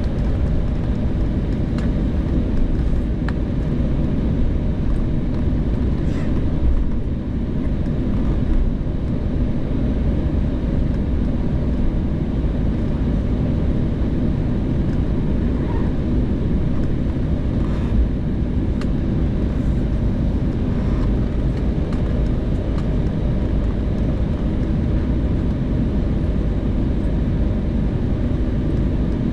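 Steady low rumble of an Embraer 190's GE CF34 turbofan engines and airflow, heard from inside the passenger cabin, with a few faint rattles.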